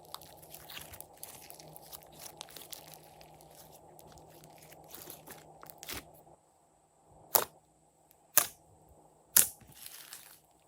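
Slime being squished and stretched by hand, with soft, dense crackling clicks, then three loud, sharp pops about a second apart.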